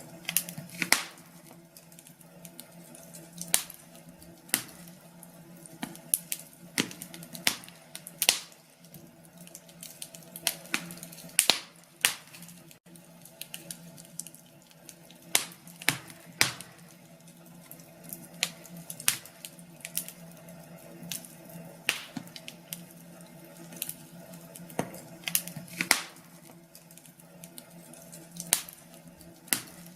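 Wood fire crackling in a fireplace: irregular sharp pops and snaps, a few every couple of seconds, over a faint steady low hum.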